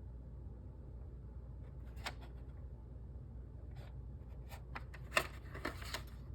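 Handling noises: a scatter of light clicks and rustles, the sharpest click about five seconds in, over a steady low hum.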